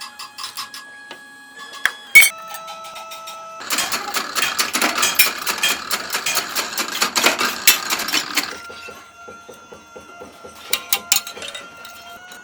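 Metalworking workshop noise: scattered sharp clicks and knocks, with a dense spell of rapid metallic clattering from about three and a half seconds in until about eight and a half seconds in.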